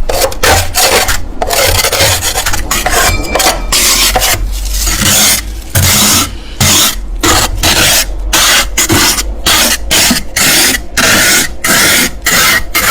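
Close-miked crunching of freezer frost being bitten and chewed: a run of loud, crisp crunches broken by brief pauses.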